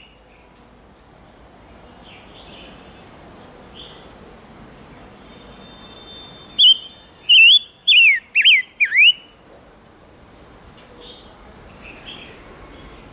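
Silver-eared mesia singing: a quick phrase of about six loud, clear whistled notes, each sliding down in pitch, about halfway through, with fainter calls before and after.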